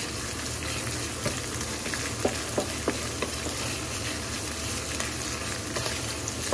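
Canned tuna with garlic and bird's eye chillies sizzling in oil in a dark nonstick pan, stirred with a wooden spatula that gives short taps and scrapes against the pan now and then. The tuna is being fried until it turns a little dry.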